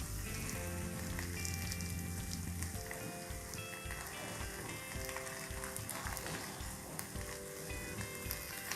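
Beaten egg sizzling and crackling steadily in a pan with a little oil over low heat, spread thin to fry crisp. Light background music plays over it.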